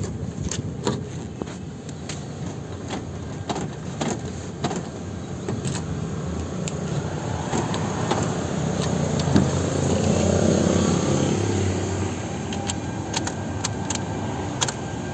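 Automatic key-cutting machine milling a Honda HR-V key blade: a steady mechanical run with many sharp clicks, swelling to its loudest about ten seconds in and then easing.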